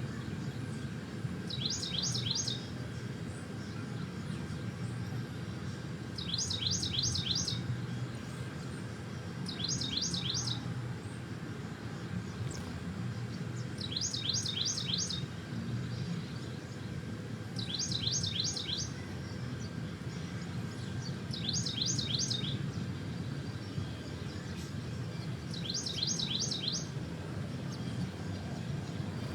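A songbird repeating the same short, high phrase of four or five quick falling notes, seven times, one every three to five seconds, over a steady low background rumble.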